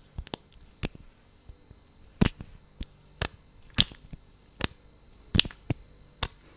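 Wet, sticky lip smacks and mouth clicks through lip gloss, close to the microphone: sharp separate pops, about ten at uneven gaps of half a second to a second.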